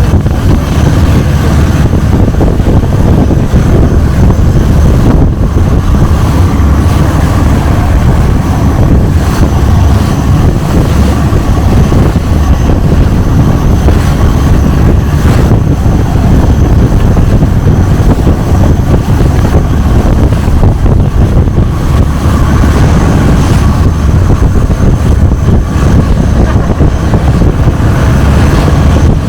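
Longtail boat engine running steadily under way, a loud unbroken low drone.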